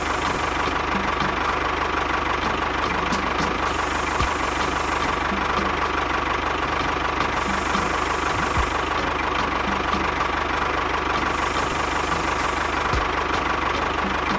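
An engine running steadily at an even pace.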